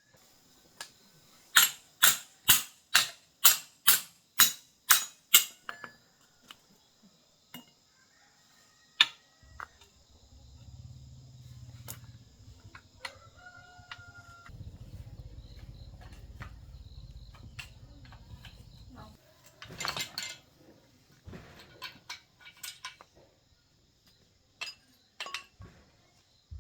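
Nine sharp metal-on-metal strikes at about two a second, then scattered clinks and clatter of metal tools and parts, with a low hum for several seconds in the middle.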